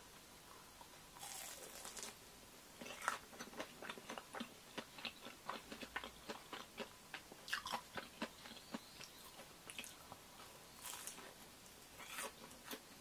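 Crunchy biting and chewing of a batter-fried seaweed roll (gimmari): a crisp bite about a second in, then several seconds of quick, irregular crunching chews, with more crunching bites near the end.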